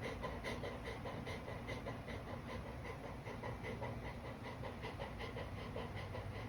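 Golden retriever chewing a doughnut: quick, wet mouth smacks at about four a second.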